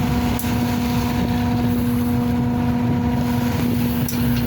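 Ferry's engines running steadily: a constant even hum over a low rumble.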